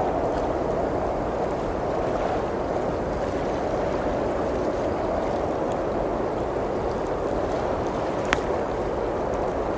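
Steady blizzard wind outside a cabin, with sparse crackles from a wood fire and one sharper pop near the end.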